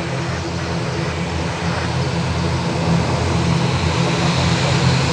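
UNI Air ATR 72-600 turboprop departing, its two Pratt & Whitney PW127 engines and propellers running with a deep steady drone that slowly grows louder.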